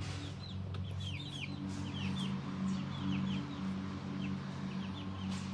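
Chickens clucking softly and steadily, with many short high chirps repeating two or three times a second throughout.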